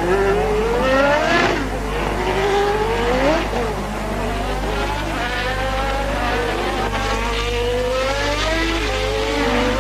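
Formula One race car engines of the 1988 season accelerating on track, their notes climbing in pitch again and again as the cars pull through the gears, each climb lasting a second or two.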